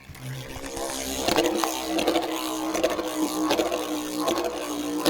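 Lightning L-Drago 100HF Beyblade spinning in a stadium after launch: a steady whirring hum with scattered clicks and scrapes as it travels around the bowl.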